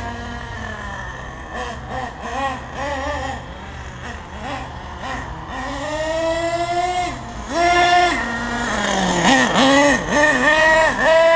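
HPI Savage 1/8-scale nitro monster truck's 4.6 cc RB engine revving up and down as the truck is driven. It is fainter for the first few seconds, holds one long high run about six seconds in, and gives a quick string of revs near the end.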